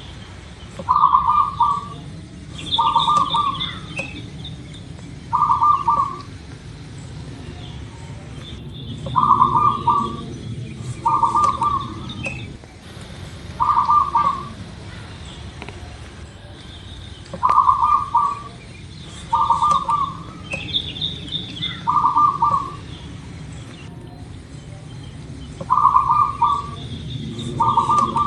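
Zebra dove (perkutut) cooing: rolling, trilled coo notes given in phrases of three, and the phrase comes again about every eight seconds.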